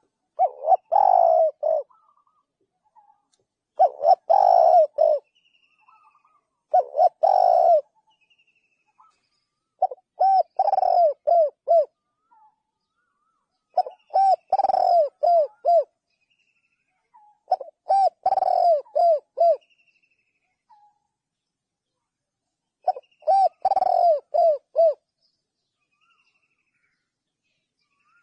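Spotted dove cooing: seven loud coo phrases a few seconds apart, each lasting one to two seconds, the later phrases broken into a run of four or five short notes.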